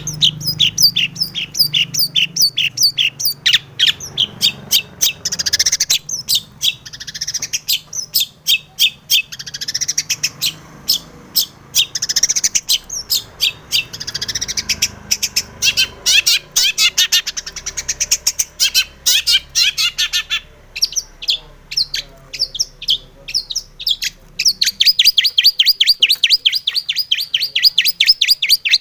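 Long-tailed shrike (cendet) singing a fast, varied song of sharp chirps and trills, including imitations of other birds, and ending in a rapid, even run of repeated notes.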